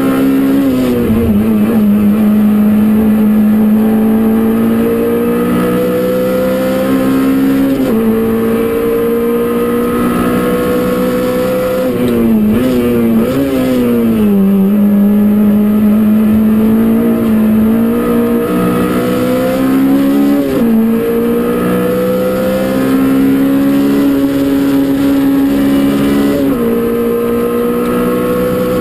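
Peugeot 205 Rallye Group A four-cylinder engine, heard from inside the stripped race cabin, pulling hard up a hill climb. Its pitch climbs under throttle and drops sharply at each gear change, with a quick run of up-and-down swings about halfway through.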